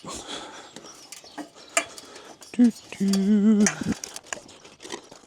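Scattered knocks, clatter and light clinks as a person climbs onto a roof carrying repair materials. About three seconds in, a short grunt is followed by a drawn-out strained groan of effort.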